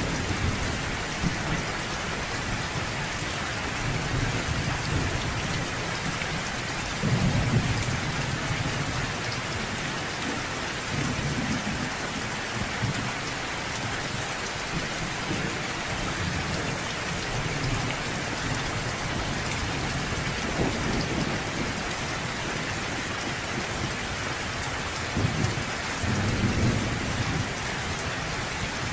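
Steady heavy rain hissing and pattering, with low rolling thunder rumbling up several times, loudest about seven seconds in and again near the end.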